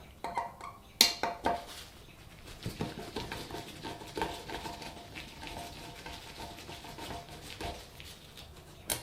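Small metallic clinks and ticks of the last blade screw being taken out of a ceiling fan and the blade coming off its mount, with a sharp click about a second in and another near the end.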